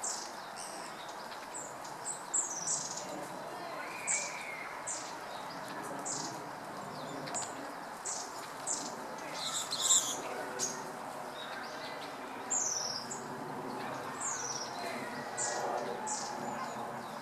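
A flock of red-billed leiothrix calling: many short, high, down-slurred call notes scattered throughout, some overlapping, over a steady background murmur.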